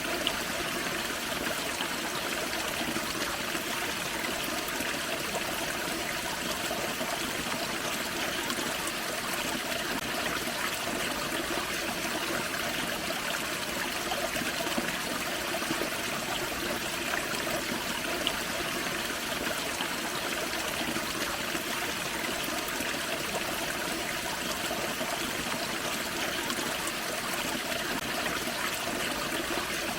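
Forest creek running steadily over a small waterfall, a continuous trickling and splashing.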